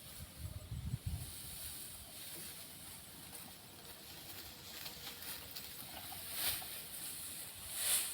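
Rough rice grain pouring and sliding with a hissing rush, after a few low thumps in the first second; the rush swells twice, the second time near the end.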